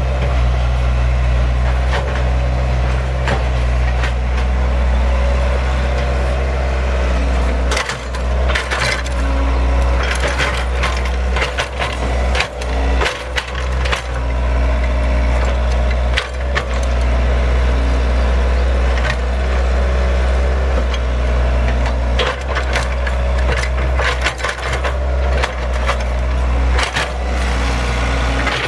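Excavator diesel engine running steadily, with bursts of cracking and snapping wood, like branches or trees being broken, about a third of the way in and again near the end.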